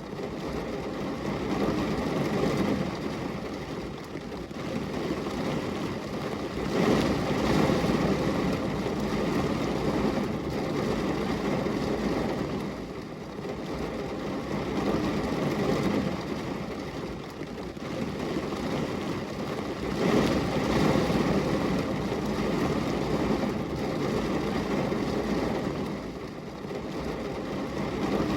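Rain falling as a dense rushing noise, weighted low, that swells and eases every several seconds.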